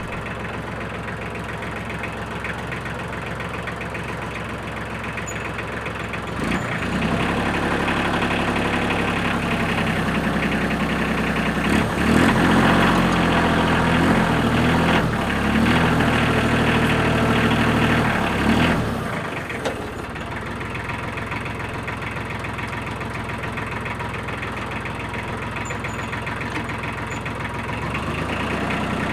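Utility tractor engine idling, then revving up about six seconds in and running hard under load for about thirteen seconds as the front loader tries to lift a pallet of concrete blocks too heavy for it, before dropping back to idle.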